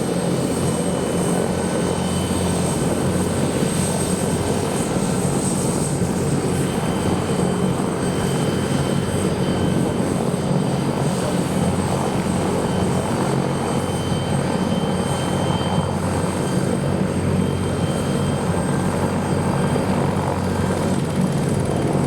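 Bell 412EP helicopter running steadily, a low even drone of rotor and turbines with a thin high whine held over it throughout.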